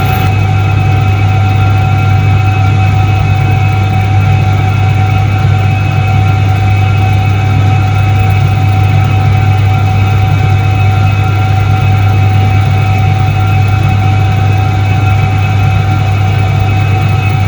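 Soviet Iset-3 washing machine from 1978 running: a steady low motor hum with a thin, constant whine above it.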